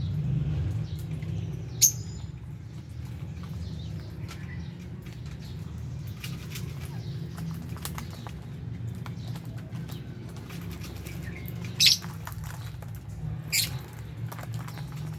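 Lovebirds in an aviary giving three short, sharp high chirps, about two seconds in and twice near the end. Between them come scattered small clicks and rustles of the birds moving and pecking, over a low steady hum.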